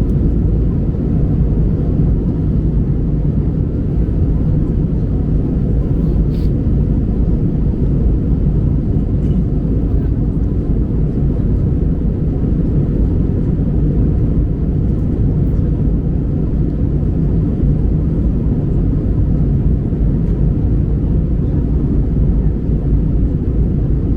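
Steady low rumble of engine and airflow noise inside an Airbus A319 passenger cabin, on the approach to landing.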